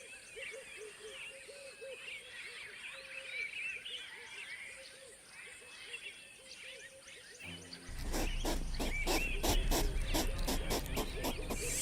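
Many birds chirping and calling in natural ambience. About eight seconds in, rhythmic music with a beat and heavy bass comes in.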